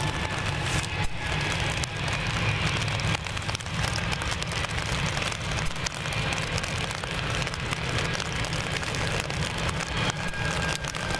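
Heavy rain falling close to the microphone as a dense patter of drops. Under it is the faint whine of an Airbus A320-family airliner's jet engines at low taxi power, slowly falling in pitch, over a low rumble.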